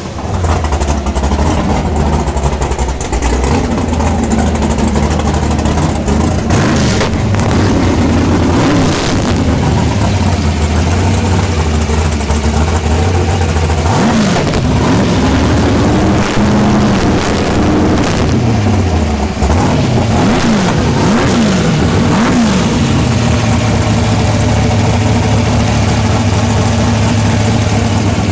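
Naturally aspirated 565 cubic-inch big-block Chevy V8 in a 1955 Chevy 210 drag car, just fired up and running loud. It idles, is blipped up and down in revs several times partway through, then settles into a steady idle near the end.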